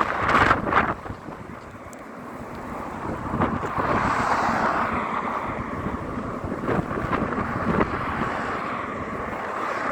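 Strong sandstorm wind buffeting the microphone in rushing gusts. It eases about a second in, then builds back up and stays strong.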